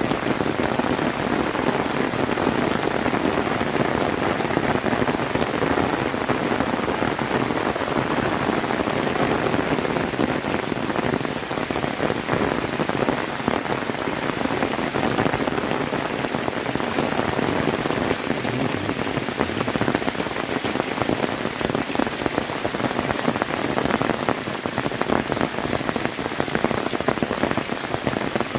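Heavy rain pouring steadily, a dense, even hiss of drops striking surfaces.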